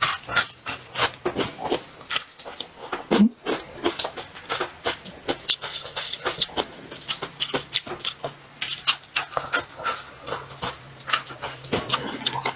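Close-miked chewing and crunching of fried food: rapid irregular crisp clicks and wet mouth sounds, about three or four a second, over a faint steady low hum.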